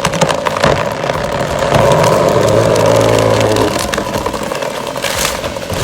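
An engine running with a steady pitch and a rattle of clicks, growing louder about two seconds in and easing back before four seconds.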